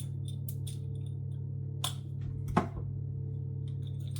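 Scattered light clicks and taps of seasoning containers being handled and shaken over a bowl of chicken, with one louder knock about two and a half seconds in, over a steady low hum.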